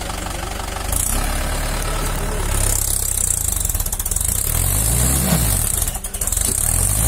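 Tractor engine running steadily just after starting, its speed rising and falling briefly around five seconds in.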